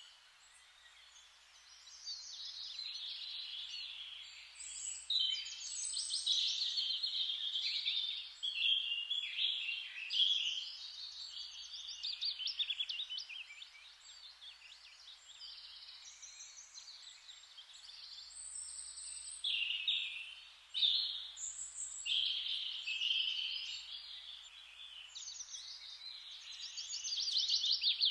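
Several birds singing at once, overlapping trills and chirps over a faint steady hiss, with a short lull about a second in.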